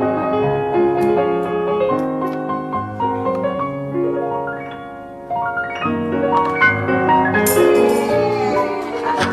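Background music carried by a piano playing a steady run of notes, dipping in loudness about five seconds in.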